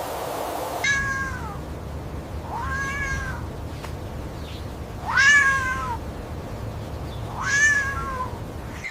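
A cat meowing four times, each call under a second, rising slightly then falling in pitch; the third call is the loudest. A steady hiss cuts off just before the first meow.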